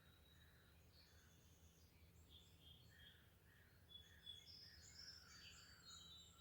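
Faint birdsong: several wild birds chirping and giving short trills at different pitches, busier in the second half, over a thin steady high tone and a low rumble.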